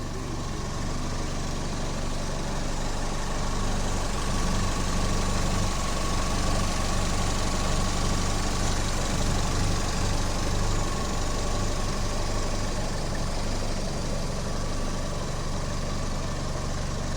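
Chevrolet Aveo T300's petrol engine idling steadily.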